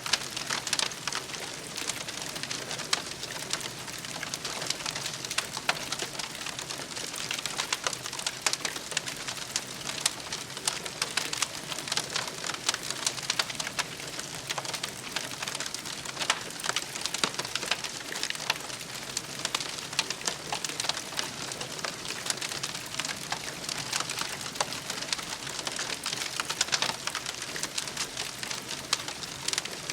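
Wood fire crackling steadily, with many small pops and snaps over a soft hiss of burning.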